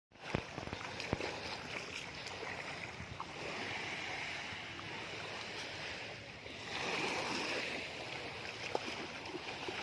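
Sea surf washing in the shallows, a steady wash that swells twice.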